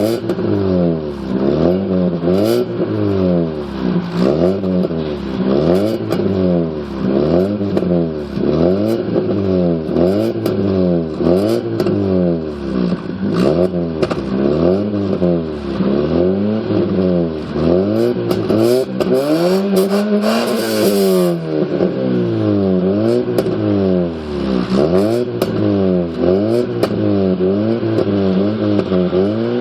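Alfa Romeo 156 1.8 Twin Spark inline-four exhaust, revved up and dropped back over and over, about once a second, with one longer, higher rev about twenty seconds in.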